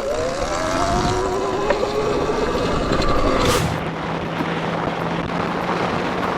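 A vehicle's motor whining and rising steadily in pitch as it speeds up. About three and a half seconds in, it cuts to a steady low engine hum with wind rushing over the microphone as a motorcycle rides along.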